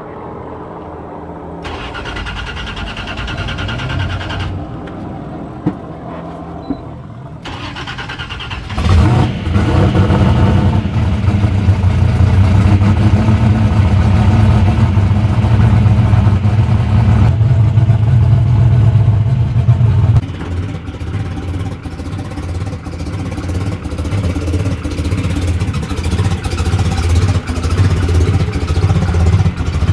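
Turbocharged big-block Chevrolet V8 in a Corvette C3 drag car, heard from the cockpit. Quieter engine sound for the first nine seconds, then the engine fires up loudly and runs at a steady, heavy idle, settling a little lower about twenty seconds in.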